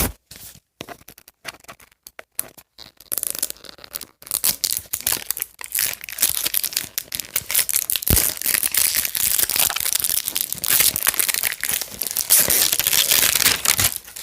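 Plastic wrap crinkling and tearing as it is pulled off a toy package. Scattered crackles at first, then dense, continuous crackling from about three seconds in.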